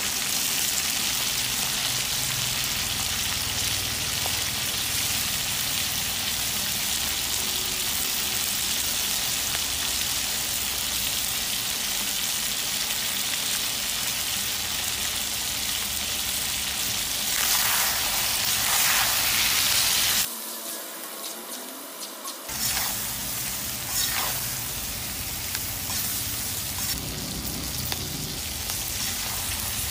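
Chicken feet frying in oil in a cast-iron pot: a steady sizzle, with a few louder scraping, crackling stretches of stirring about two-thirds through. The sizzle then drops suddenly and carries on quieter, with scattered pops.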